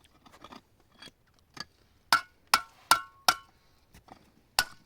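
A series of hard clinking knocks, each with a short ring: a few faint taps, then four sharp strikes in quick succession about two to three and a half seconds in, and one more near the end.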